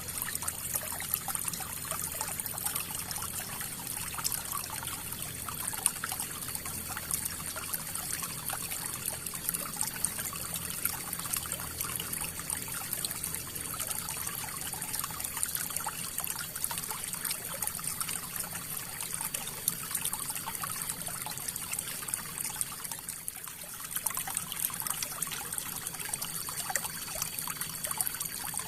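River water flowing: a steady rush with many small splashes and gurgles.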